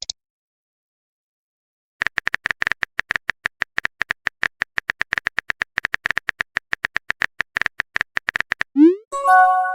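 Smartphone keyboard typing sound effect: rapid, even taps for about six seconds after a silent stretch. Near the end come a short rising whoosh, the message-sent sound, and a brief multi-note chime.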